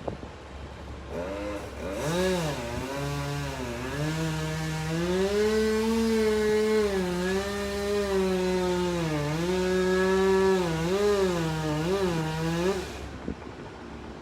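Two-stroke chainsaw running at high revs while cutting pine wood, its pitch rising and falling with several short dips as it works through the cut. It starts about a second in and stops shortly before the end.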